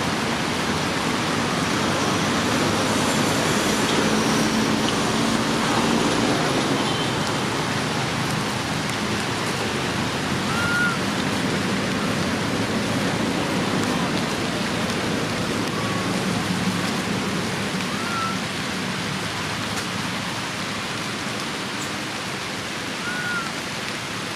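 Steady rushing noise, like rain or running water, throughout. Three short high chirps come about ten, eighteen and twenty-three seconds in.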